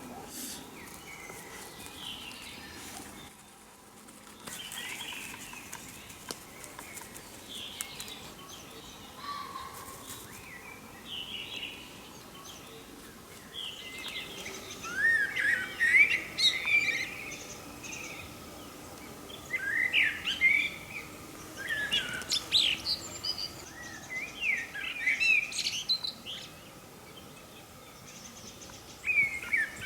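Forest songbirds singing. Several birds sing softly at first; from about halfway through, one bird sings a louder, complex phrase of one to two seconds, repeated every few seconds, five times.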